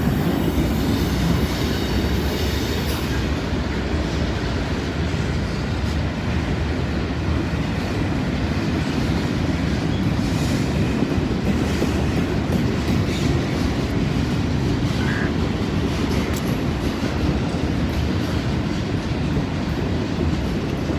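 Freight train cars rolling past at close range: a steady rumble of steel wheels on rail, with some clickety-clack.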